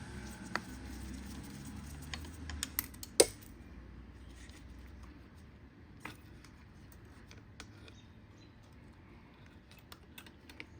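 Scattered light clicks and taps of small parts being handled on a dirt bike's carburetor and throttle cable, with one sharper knock about three seconds in.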